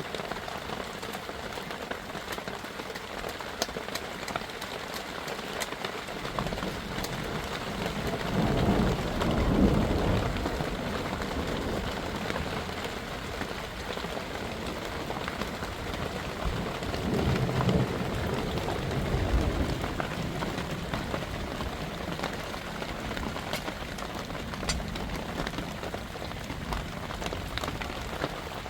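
Steady heavy rain pattering down, with scattered drop clicks. Thunder rumbles twice, building to a loud swell about a third of the way in and again a little past the middle.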